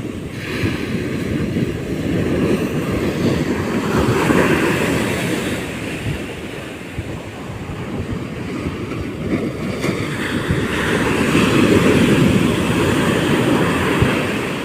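Sea waves washing onto the shore, rising and falling in two slow surges, with wind buffeting the microphone.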